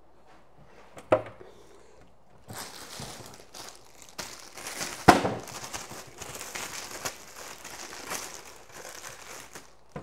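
Plastic food packaging crinkling as it is handled, with a sharp knock about a second in and a louder one about five seconds in.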